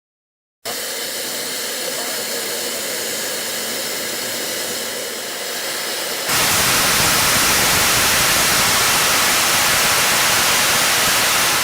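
Steady hiss of escaping steam from LNER A4 steam locomotive 'Sir Nigel Gresley', with no exhaust beats. It cuts in sharply, then about six seconds in it jumps to a much louder, fuller rush of steam.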